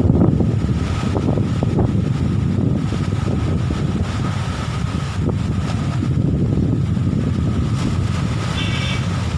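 Strong wind buffeting the microphone: a heavy, continuous low rumble. A brief high-pitched tone sounds near the end.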